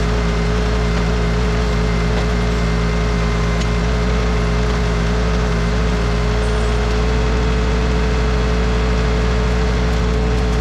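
Bad Boy 4035 compact tractor's diesel engine running at a steady speed, with a steady whine above the engine note.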